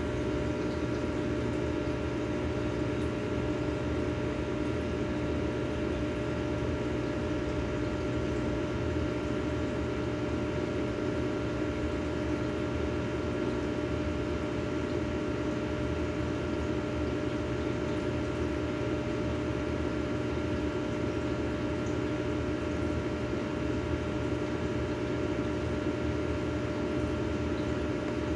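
Steady hum of a small motor, with several constant tones over an even hiss.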